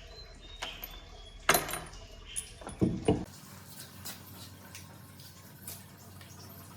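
A few sharp knocks and clatters of objects being handled. The loudest comes about one and a half seconds in, then two close together near three seconds, followed by faint small clicks.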